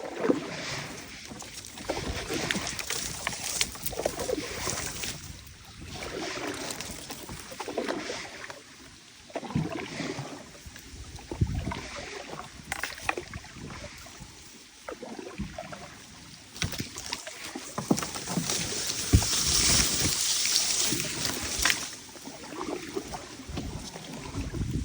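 Canoe paddling on open water: irregular swells of splashing and sloshing as the paddle strokes, with a few low thumps.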